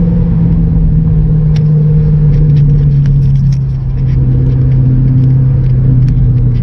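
Straight-piped Ford GT's supercharged 5.4-litre V8 heard from inside the cabin, cruising at low revs with a deep, steady note. The note eases off briefly about four seconds in, then picks up again.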